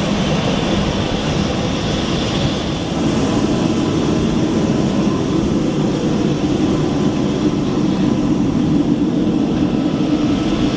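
Steady loud roar of an airliner running on the ground, growing a little fuller about three seconds in.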